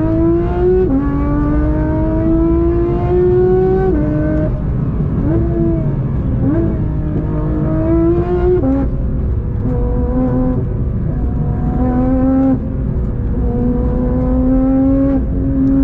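Porsche 992 GT3's naturally aspirated flat-six under hard acceleration. The engine note climbs in pitch, falls back abruptly as it changes gear, and climbs again several times, with a few short dips and blips of the revs between the longer pulls.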